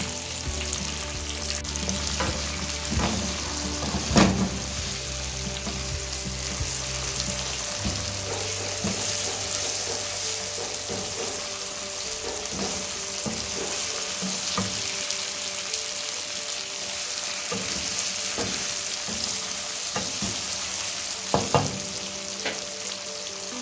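Chicken frying in oil in a karahi, a steady sizzle, stirred with a wooden spatula that knocks against the pan a few times, loudest about four seconds in and again near the end.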